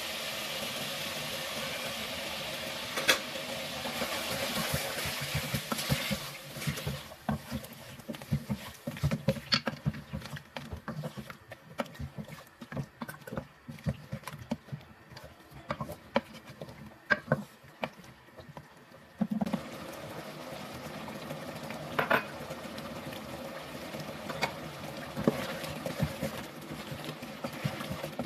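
Chicken masala frying and sizzling in a pot, with frequent sharp clicks of a spoon stirring against the pot. The sizzle grows fainter from about six seconds in and comes back loud at about nineteen seconds.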